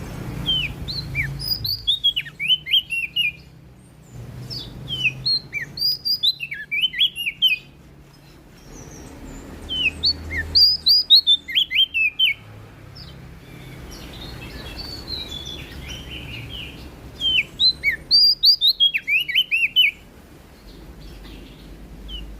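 Prenjak daun (leaf warbler) singing: bursts of quick, high, downslurred whistled notes, each phrase lasting two to three seconds, with short pauses between, about five phrases in all.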